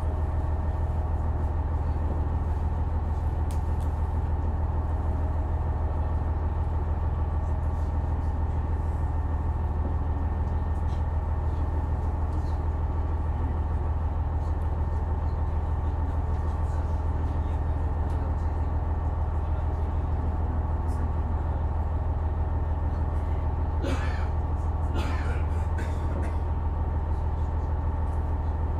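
Diesel engine of a KiHa 126 railcar idling steadily with a low hum while the train stands halted after an emergency stop. Two brief noises come about 24 and 25 seconds in.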